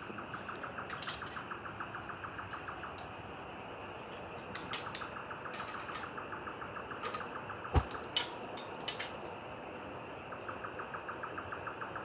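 A bird's song of rapid, evenly repeated notes, about seven a second, sung three times in phrases of about three seconds. Scattered clicks and knocks come in between, the loudest a sharp knock with a thud just before eight seconds in.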